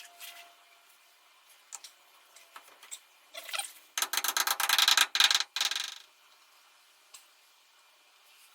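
Hand tools and metal parts being handled: scattered light clicks and taps, then a fast, even run of clicks lasting about two seconds, starting about four seconds in.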